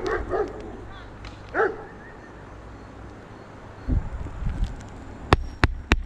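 A dog barking, a few short yips in the first second and one more bark shortly after. Near the end come three sharp knocks in quick succession, the loudest sounds here.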